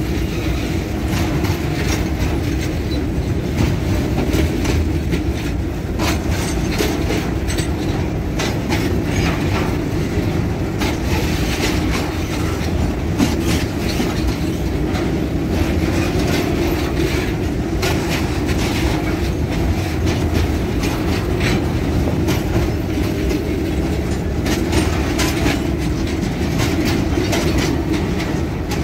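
A long string of freight boxcars rolling past close by: a steady rumble of steel wheels on rail, broken by frequent irregular clicks and knocks as the wheels cross rail joints.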